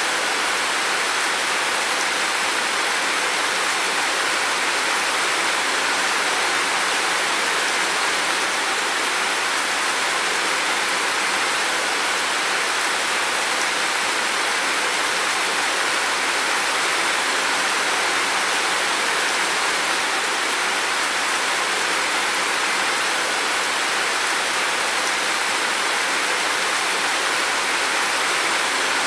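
Heavy rain falling in a steady, unbroken hiss with no separate drops or thunder standing out.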